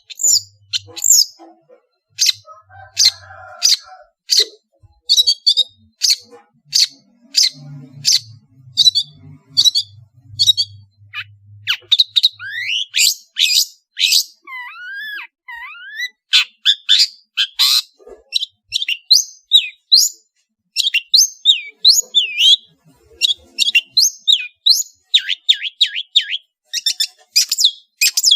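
Long-tailed shrike (cendet) singing a varied song: a rapid string of short, sharp, high notes, with a few gliding whistled notes about halfway through.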